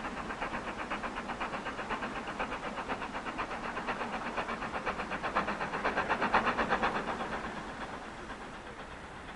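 Steam locomotive exhaust beats from LMS Black Five 4-6-0 No. 45212 working a train, a quick even chuffing of about five or six beats a second. The beats grow louder to a peak around six to seven seconds in, then fade away.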